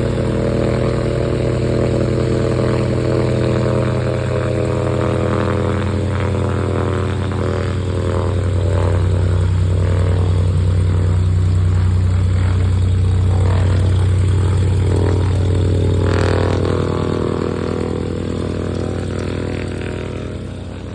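Small piston-engine airplane running close by: a steady, loud propeller drone that swells through the middle and eases off near the end.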